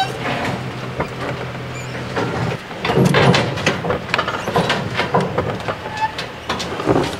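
Vehicle running with a steady low hum, then rattling and clunking from about two and a half seconds in, as over rough ground.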